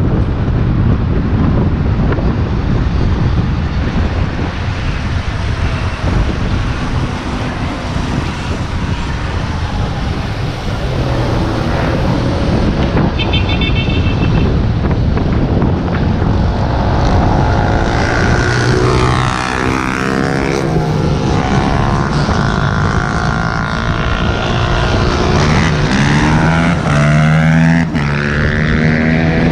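Wind rushing over the microphone of a moving bike, with traffic noise beneath. From about halfway through, several motor whines rise and fall in pitch as vehicles or bikes speed up, slow down and pass.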